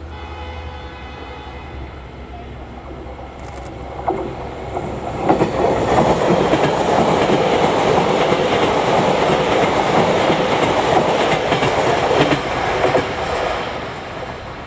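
Electric commuter train passing through the station, its wheels clattering over rail joints. It builds up about four seconds in, stays loud for some eight seconds, then fades away.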